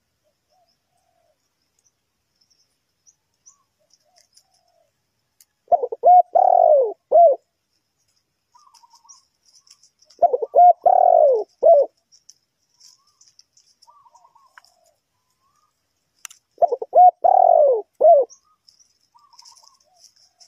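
Spotted dove cooing: three phrases a few seconds apart, each a short note, a long falling croon and a short closing note. Faint high chirps from small birds in between.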